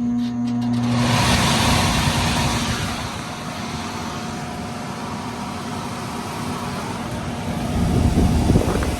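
Furnace blower fan starting up and running: a brief electric motor hum, then a steady rush of air that builds over the first second as the blower comes up to speed and pushes air through the evaporator coil.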